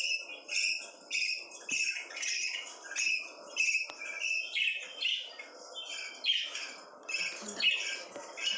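Pet lovebirds chirping in a steady, busy chatter of short high calls, several a second.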